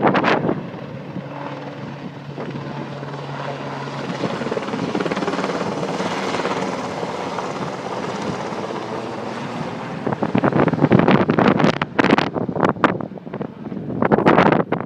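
RAF helicopter droning steadily in flight. Wind gusts buffet the microphone right at the start and heavily again from about ten seconds in.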